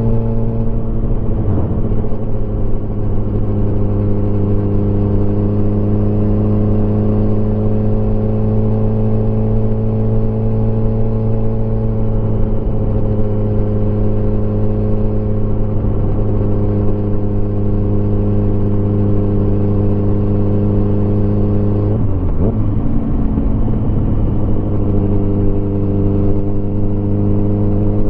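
Motorcycle engine running at a steady cruise, its pitch drifting slowly with throttle, with a brief change in the engine note about 22 seconds in before it settles again.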